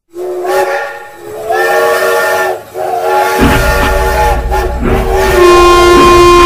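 A steam-train whistle sounds in three long blasts, each of several notes at once. From about three and a half seconds in, the low rumble of a train running comes in underneath. Near the end a single louder horn note is held.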